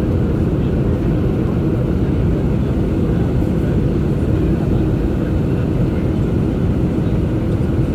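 Airbus A321-231 jet airliner in flight, its IAE V2500 engines and airflow making a steady, unbroken low rumble.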